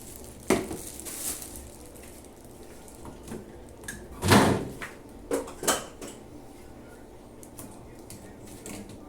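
Knocks and clatter of things being handled in a kitchen: a sharp knock, a louder thud about four seconds in, then two quicker knocks.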